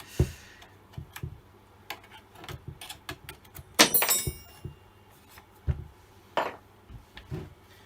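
Handling noises on a workbench: scattered knocks and clicks of metal parts and tools being moved, with a louder metallic clatter that rings briefly about four seconds in.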